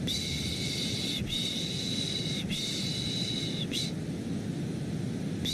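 Rhythmic 'shh' shushing, each shush about a second long with brief breaks between them, over a steady low white-noise hiss. The shushing pauses about four seconds in and starts again at the very end.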